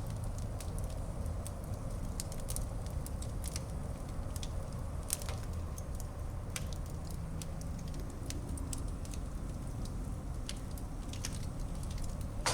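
Wood fire burning in a fireplace, crackling with irregular sharp pops over a steady low rumble. One louder pop comes about five seconds in.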